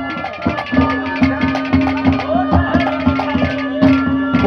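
Instrumental interlude of a Haryanvi ragni folk band: a hand drum beats a quick, even rhythm of about four strokes a second under a held low drone note and a wavering melody line.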